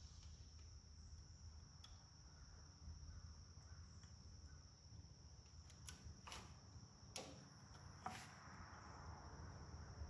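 Near silence with the steady high chirring of crickets, and a few faint clicks about six to eight seconds in.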